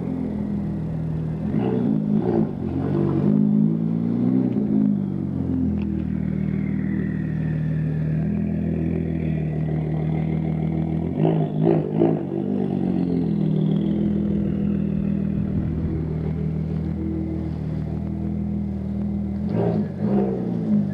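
Audi S4's 2.7-litre twin-turbo V6 running at low speed through its exhaust, blipped into short revs about two seconds in, around twelve seconds in, and again near the end.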